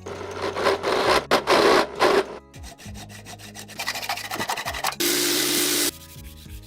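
Abrasive rubbing strokes, like filing or sanding by hand: a few slow, rough strokes, then a run of quicker ones. About five seconds in comes a steady hissing burst lasting about a second.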